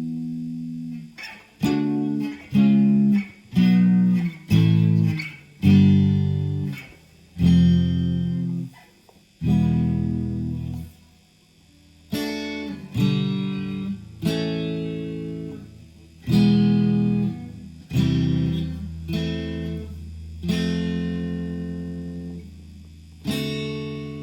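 Clean guitar chords played slowly, one at a time, about fifteen in all, each struck and left to ring and fade before the next.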